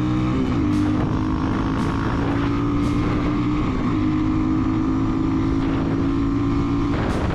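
Hawk 250 dual-sport motorcycle's fuel-injected 250cc single-cylinder engine running at a steady speed while riding, its pitch dipping briefly about half a second in and shifting slightly about halfway through.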